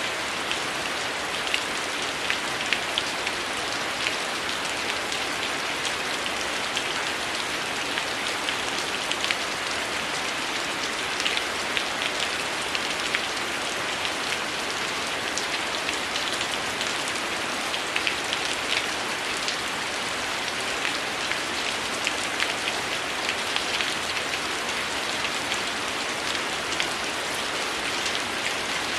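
Steady heavy rain falling, with many small, sharp ticks scattered through it.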